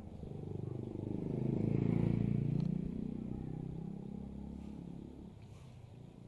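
A motor vehicle passes close by. Its engine grows louder to a peak about two seconds in, then fades away as its pitch drops.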